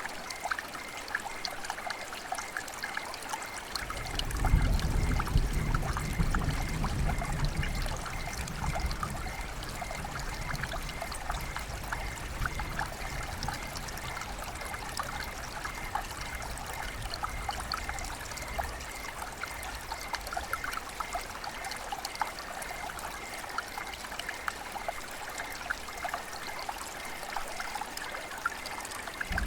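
Rain and running water: a steady trickle with many small drips throughout. About four seconds in, a low rumble swells up and fades away over the next several seconds.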